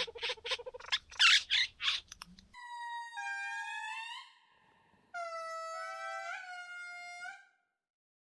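Satin bowerbird's harsh, buzzing display calls in short rapid bursts for the first couple of seconds, then two sustained brass-like musical phrases, each held steady with small steps in pitch, ending about a second before the end.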